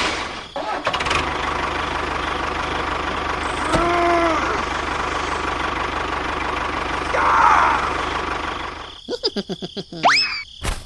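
Engine running steadily with a fast knocking beat. It gives way near the end to a quick run of clicks and sliding whistle-like tones.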